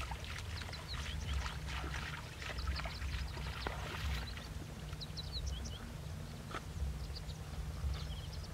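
Small birds chirping in many short, high notes over a steady low rumble.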